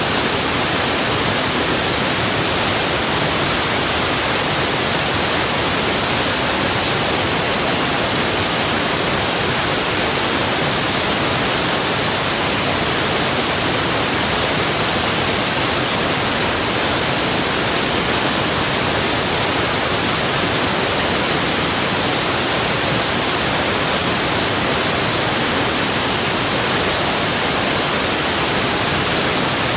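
Waterfall: a steady rush of falling water, heard as a bright, even hiss that never changes.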